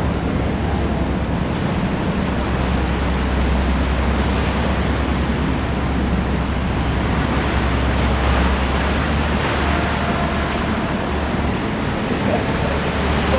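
Boat under way: a steady low engine drone with water rushing along the hull and wind on the microphone.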